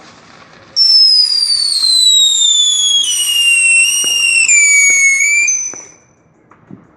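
Whistling firework, one long shrill whistle that starts suddenly and slides steadily down in pitch for about five seconds before dying away, with a few faint pops around it.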